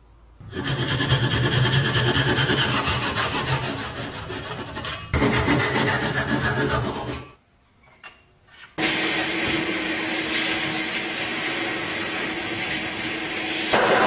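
Rasping, rubbing hand work on the rusty metal parts of an old hand-cranked grinder, as in filing or sanding off rust. It comes in short edited stretches with a brief quiet gap a little past the middle.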